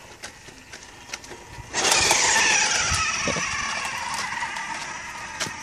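Toy monster truck's electronic engine sound effect, starting suddenly about two seconds in, then sliding down in pitch and slowly fading.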